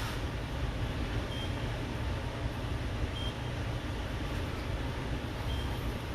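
Steady low hum with a constant hiss, broken by three faint short high beeps about two seconds apart.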